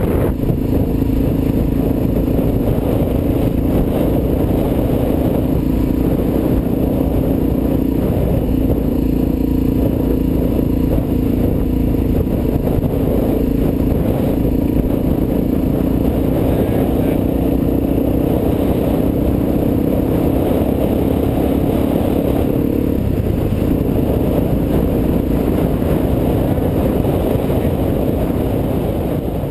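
Suzuki DR-Z400's single-cylinder four-stroke engine running steadily at cruising speed, heard with wind rush on the microphone. The engine note changes about three-quarters of the way through, and the sound fades out at the very end.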